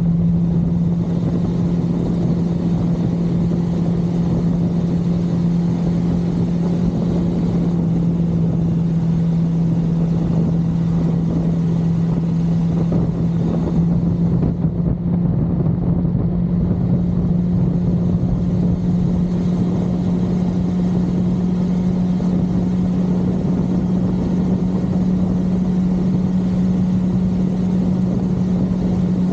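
1982 Suzuki GS550L's air-cooled inline-four engine running steadily at cruising speed over a constant rush of noise, its pitch creeping up slightly in the second half.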